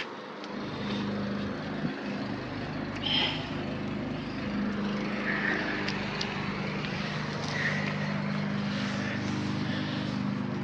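An engine droning steadily, rising about a second in and then holding, with a few short high chirps over it.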